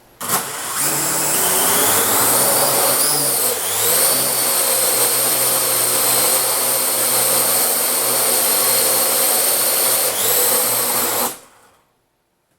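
Parrot AR.Drone quadcopter's rotors spinning up for takeoff, then a steady, high motor-and-propeller whine while it hovers, with brief shifts in pitch. The whine cuts off near the end as it lands and the motors stop.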